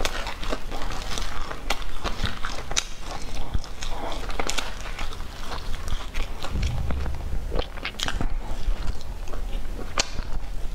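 Close-miked eating of a soft, crumb-topped bread bun: bites, chewing and wet mouth clicks, with the bun pulled apart by hand.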